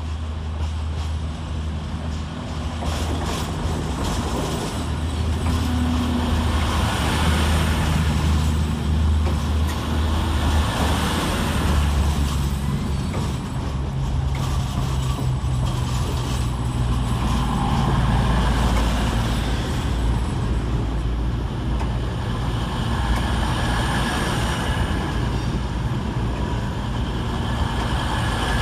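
CrossCountry Class 220 and Class 221 Voyager diesel-electric units running at the platform, their underfloor Cummins diesel engines droning steadily, the engine note shifting up and down a few times.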